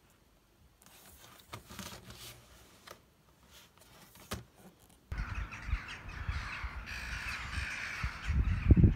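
Light clicks and rustling of handling, then from about halfway through, harsh bird calls repeating over a low rumble, loudest near the end.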